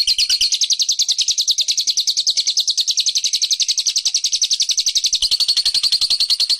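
Small songbird giving a rapid, unbroken chattering trill of about a dozen high notes a second, played as a bird-catchers' lure call.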